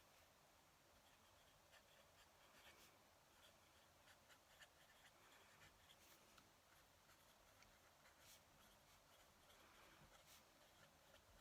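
Faint scratching of a fountain pen nib on paper during handwriting, in short, irregular strokes.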